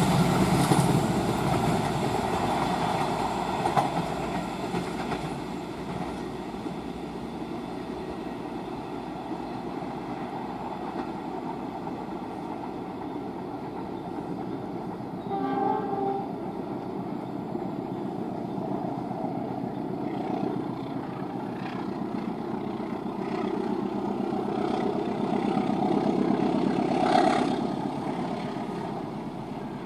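Train running past on the rails, loud at first and fading over several seconds into a steady rumble. A short horn blast sounds about halfway through, and near the end the sound swells again with another horn note.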